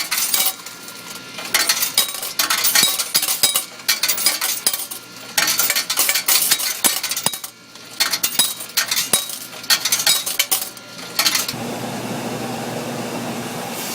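Irregular clinking and clattering in uneven bursts, giving way near the end to a steady hum.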